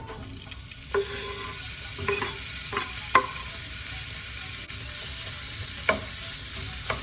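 Raw chicken pieces sizzling in hot olive oil in a frying pan, the hiss starting as they go in, with a utensil knocking against the pan several times as they are stirred.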